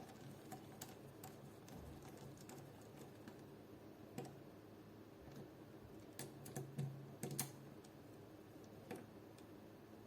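Faint, scattered small clicks and taps of an Allen key and small metal parts being handled while assembling an airsoft AK's gearbox and hop-up chamber, with a quick run of clicks about two-thirds of the way through.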